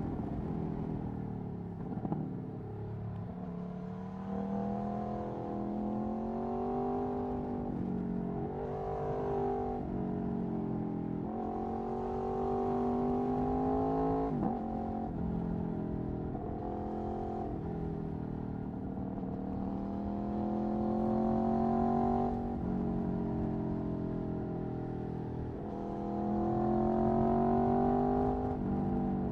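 Aprilia Tuono V4 1100's V4 engine through an Akrapovic Racing exhaust, under way on the road. Its pitch climbs under throttle and drops back again and again as the rider accelerates, shifts and eases off, louder in the stronger pulls.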